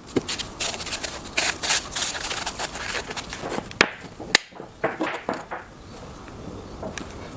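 Wooden pieces being handled: a run of light knocks, taps and rustles, with two sharp clicks a little past the middle.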